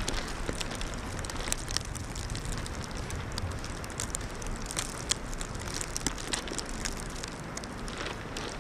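Steady wind noise in a snowstorm, with many small crackles and ticks scattered through it.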